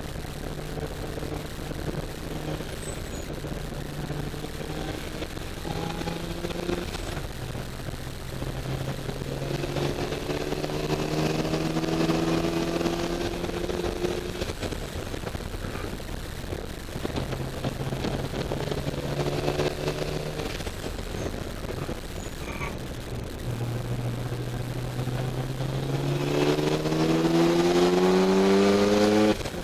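Mazda RX-7 FD3S twin-turbo 13B rotary engine heard from inside the cabin under hard acceleration: its pitch climbs in three long runs, falls back between them, and drops abruptly near the end. The recording is distorted.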